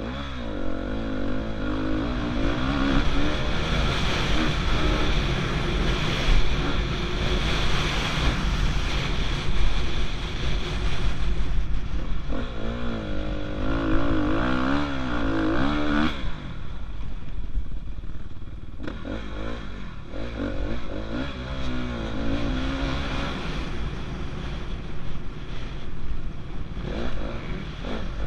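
Dirt bike engine on a motocross track, revving up and down over and over as the throttle opens and closes, over a steady low rumble.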